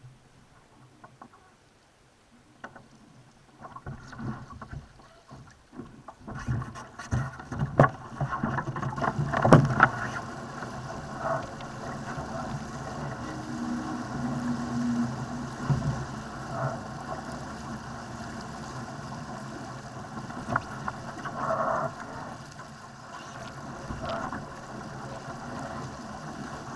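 Laser sailing dinghy under way in strong wind: a few sharp knocks and thuds on the boat, then from about a third of the way in a steady rush of water and wind along the hull, with occasional louder slaps.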